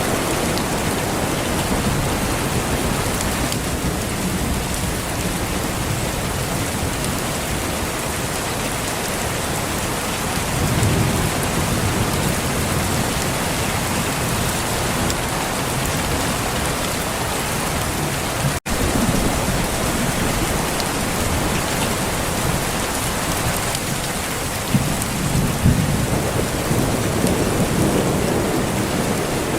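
Steady rain falling, with low rolls of thunder swelling up several times. The sound drops out for an instant about two-thirds of the way through.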